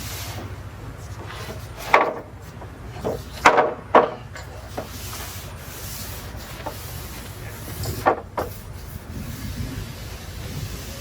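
Brush strokes rubbing oil into larch planks: several short scraping strokes, clustered about two to four seconds in and again around eight seconds, over a steady low hum.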